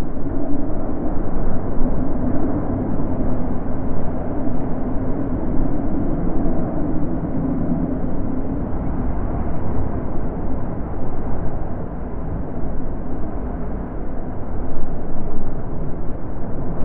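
Wind blowing steadily, a dull low rushing with no high hiss, swelling and easing in slow gusts.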